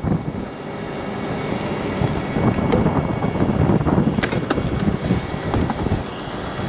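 Heavy truck engine running steadily, with wind buffeting the microphone and a few sharp metallic clicks about four seconds in.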